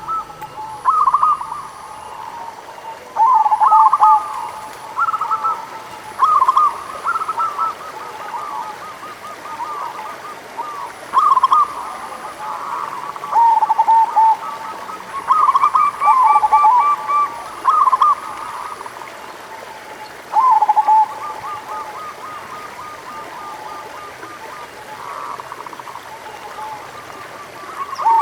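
Zebra doves (perkutut) singing: short, quavering cooing phrases repeated every one to three seconds.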